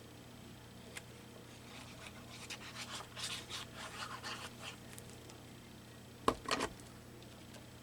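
Paper and craft supplies handled at a desk: a run of soft scratching and rustling strokes, then two sharp knocks in quick succession, like objects set down on the tabletop.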